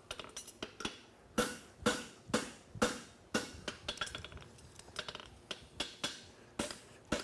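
Blacksmith's hand hammer striking a steel horseshoe on an anvil, about two blows a second, each with a short metallic ring, some blows louder than others. The farrier is raking the shoe back toward himself while hitting flat to tighten the toe.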